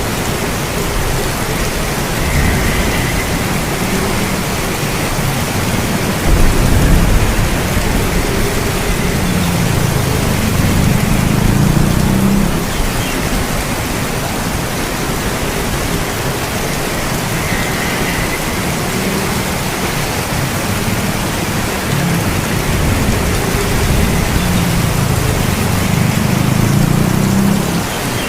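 Steady heavy rain hiss with low thunder rumbling underneath, swelling and fading several times; the strongest rumble starts suddenly about six seconds in.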